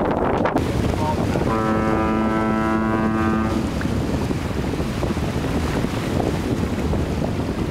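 Wind buffeting the microphone aboard a sailing yacht, with a steady, even-pitched horn blast lasting about two seconds that starts about a second and a half in.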